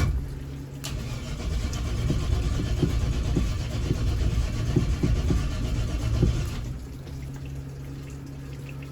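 Chevy small-block V8 cranked over by its starter motor, jumped with a cable, without catching. The cranking stops about six and a half seconds in, leaving a quieter steady electric hum.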